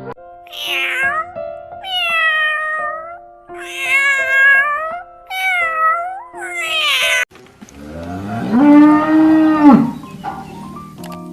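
A domestic cat meowing about five times in a row, then a cow giving one long moo, over soft background music.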